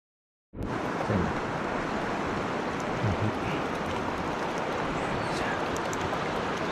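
Mountain stream rushing over rocks: a steady, even rush of water that cuts in suddenly about half a second in.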